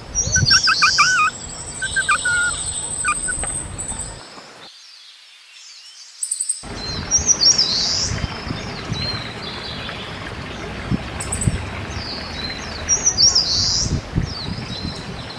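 Wild birds chirping and calling: a quick run of whistled calls and a long high trill in the first few seconds, then scattered high chirps over steady outdoor background noise.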